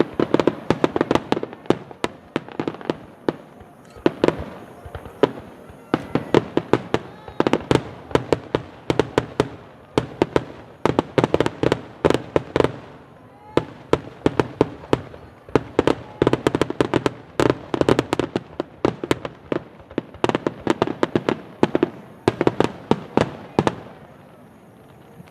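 Fireworks show finale: aerial shells bursting in rapid, overlapping volleys of bangs and crackles, many reports a second, in waves that stop shortly before the end.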